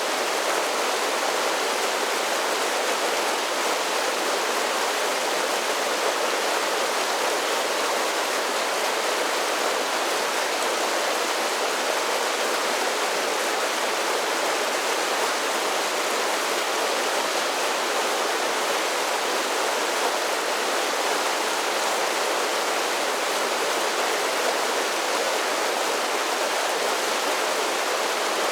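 A mountain creek splashing steadily down a series of small waterfalls: an even, unbroken rush of water with no changes.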